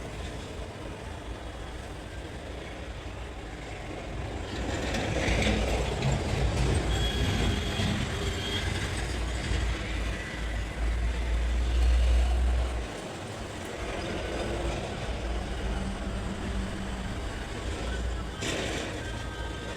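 Low background rumble with a noisy hiss, swelling louder from about four seconds in and dropping off suddenly around thirteen seconds, with a faint short high tone about seven seconds in.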